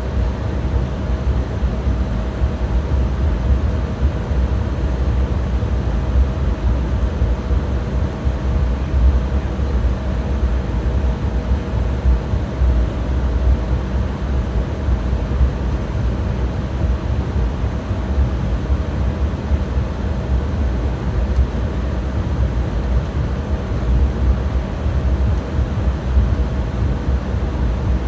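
Steady airliner cabin noise with the jet engines running at low power: an even low rumble with a faint steady whine over it.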